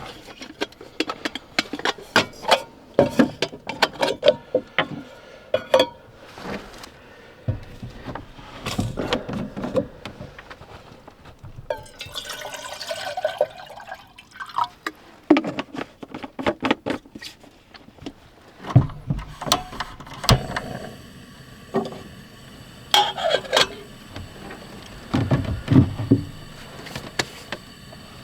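A string of handling noises, knocks and clatters of objects being moved about, with a stretch of wavering, liquid-like sound about twelve seconds in.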